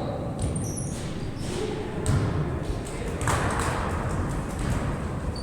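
A ball thudding repeatedly during an amateur match, with players' and onlookers' voices and short high-pitched chirps around it.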